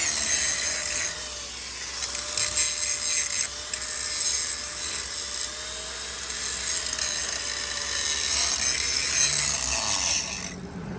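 Angle grinder grinding the steel of a scraper frame, cleaning up a cracked area for welding: a steady grinding hiss over a faint, slightly wavering motor whine, stopping shortly before the end.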